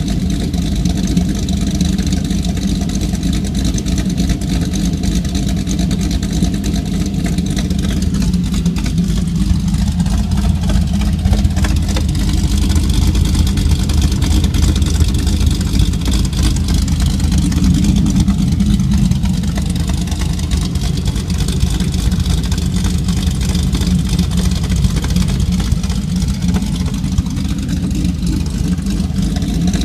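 Chevrolet Camaro SS 6.2-litre V8 with a Livernois Stage 2C camshaft, Dynatech headers and Solo exhaust idling steadily, with the choppy lope of the aggressive cam.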